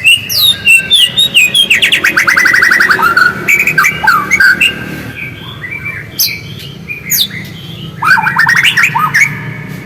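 White-rumped shama singing: a varied run of loud whistled notes and chattering calls, with fast rattling trills about two seconds in and again near the end.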